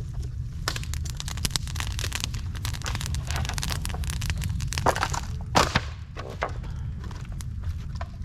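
Dry bamboo and leaves crackling as they burn in a fire pit: a dense run of snaps and pops over a steady low rumble, with a few louder pops a little past the middle.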